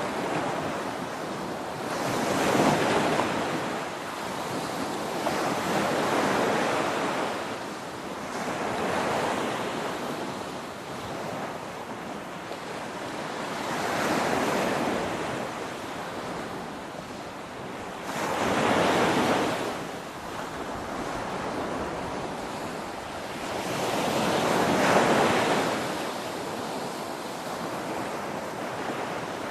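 Ocean waves crashing: a steady wash of surf with a wave surging up and falling away every three to six seconds, six times in all.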